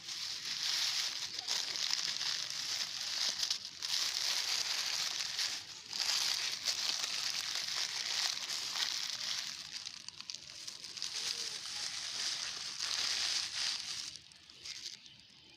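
Plastic litter and a plastic garbage bag crinkling and crumpling as they are handled and gathered. The crinkling goes almost without a break, with a few short pauses, and fades near the end.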